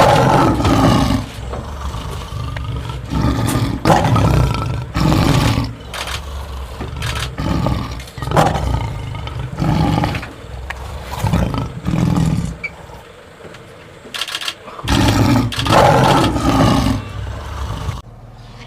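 Lion roaring: a series of loud, deep roars and grunts about one to two seconds apart, with a short lull before a last louder pair.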